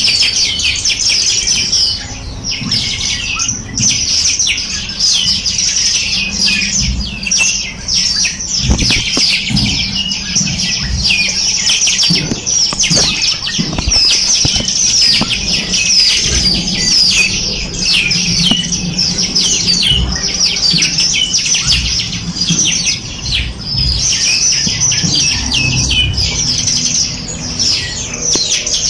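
Dense chorus of many small songbirds chirping and trilling without pause, with rapid high overlapping notes and a faint low hum underneath.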